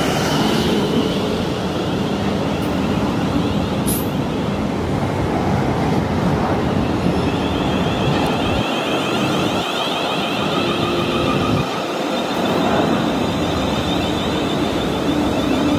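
Train running through a station on the rails: a steady rumble of wheels and traction. A high whine comes in about halfway through.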